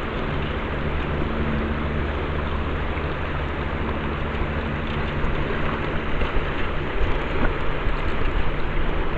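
Steady rush of fast river water, with a low, even hum underneath; the noise turns rougher and more uneven in the last few seconds.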